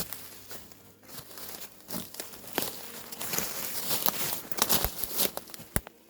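Irregular crinkling, crackling rustle with many sharp clicks, like something dry being crumpled or handled, growing busier and louder from about two seconds in and stopping just before the end.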